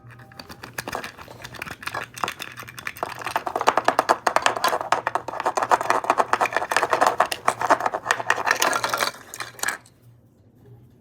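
Small hard objects clattering and scraping as they are rummaged through by hand in a search, a fast run of clicks that grows louder through the middle and stops abruptly near the end.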